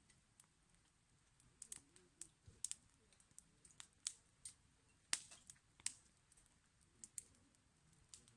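Wood fire crackling: irregular sharp snaps and pops, a couple of them louder than the rest, about five seconds in.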